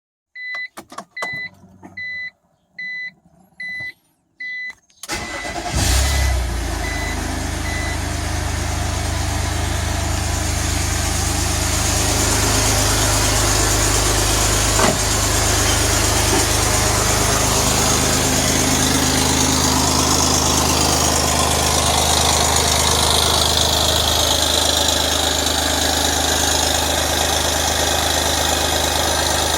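A few clicks and a string of short beeps, then a BMW M54 straight-six cranks and starts about five seconds in, flares briefly and settles to a steady idle. The owner presents this as the sound of an exhaust leak.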